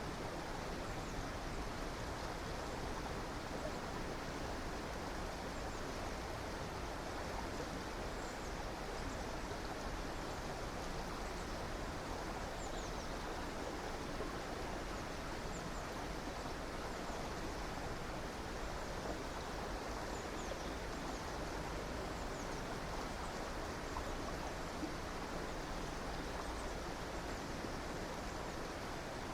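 A stream flowing steadily, with faint high bird chirps now and then.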